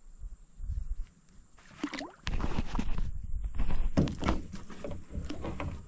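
Water splashing with hollow thunks on a kayak hull, starting about two seconds in, as a hooked bass is brought to the kayak.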